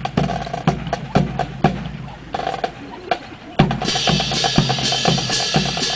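Drum and percussion music keeping a steady beat of about two strikes a second. It thins out briefly, then comes back fuller and busier a little past halfway, with a cymbal-like hiss over the beat.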